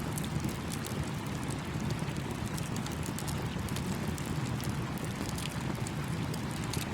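Campfire crackling with many small irregular pops, over the steady rushing of a small stream.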